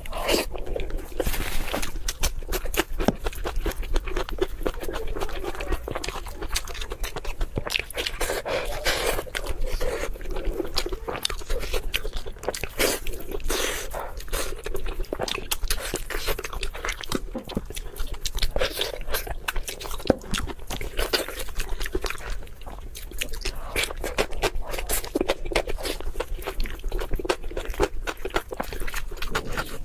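Close-miked crunchy eating: rapid crisp bites and chewing that go on without a break.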